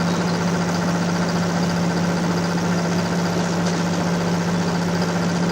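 Motor ship's diesel engine running steadily, heard on board as a constant low drone under a wash of noise.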